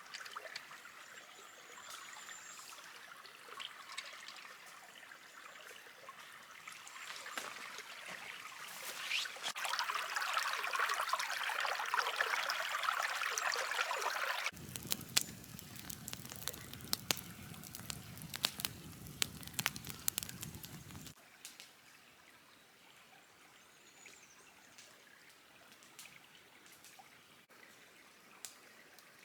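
Water trickling and pouring, with many small drips and clicks; the pour grows louder and stops abruptly about halfway through, followed by a low rumbling sound for several seconds and then scattered faint clicks.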